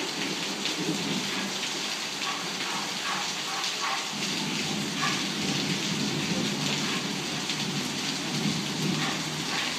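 Torrential tropical downpour: heavy rain pouring steadily, with a low rumble underneath.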